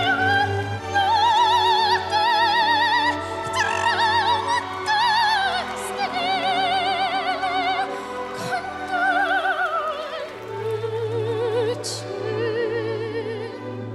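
A 13-year-old girl singing opera in a powerful voice, holding long notes with wide vibrato over a sustained instrumental accompaniment.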